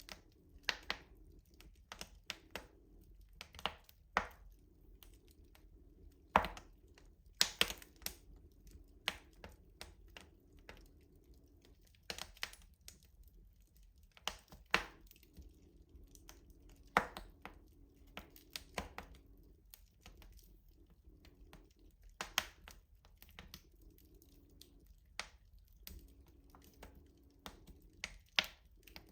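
Wood fire crackling in a rustic stove: irregular sharp pops and snaps, a few loud ones among many small ticks.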